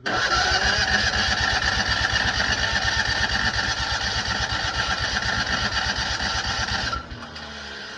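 Citroën 2CV's air-cooled flat-twin engine being cranked over on the starter, with a steady rapid pulsing and a loud whine. It stops suddenly about seven seconds in.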